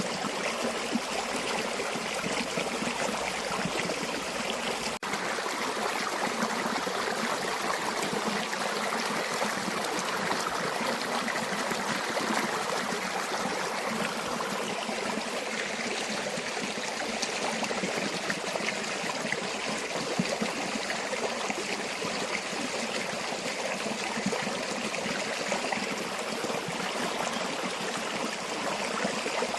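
Stream or small river flowing steadily, an even rushing and trickling of water, with a momentary dropout about five seconds in.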